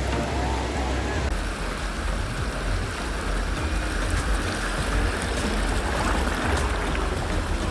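Sea surf rushing steadily on the beach, with wind buffeting the microphone.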